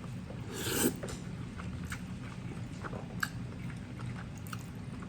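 A person chewing a mouthful of noodles in black bean sauce, with soft scattered wet mouth clicks and a short breathy sound just under a second in.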